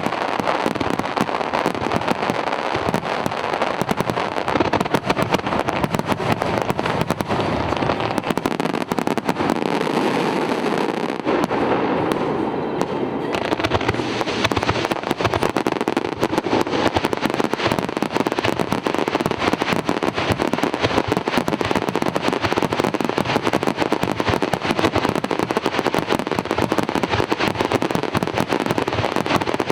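Aerial fireworks going off in a dense, continuous barrage: rapid overlapping bangs and crackling shell bursts with no let-up.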